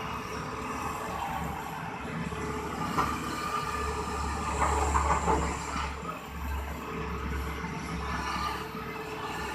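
Heavy diesel machinery running, its low engine hum rising and getting rougher under load for a couple of seconds around the middle, with a sharp metallic knock about three seconds in.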